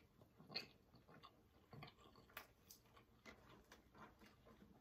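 Faint sounds of a person biting into and chewing a bacon grilled chicken sandwich: scattered soft clicks and smacks, the clearest about half a second in.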